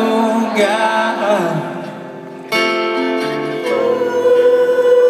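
Live rock band music with amplified sound. A sung line wavers and fades out. About two and a half seconds in the band comes in suddenly with sustained chords, and soon after a long note is held steady.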